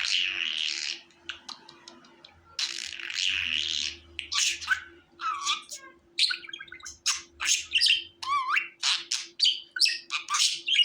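Budgerigar chirping and chattering: two long raspy calls in the first four seconds, then a quick run of short chirps and warbles, one with a wavering glide, over a faint steady hum.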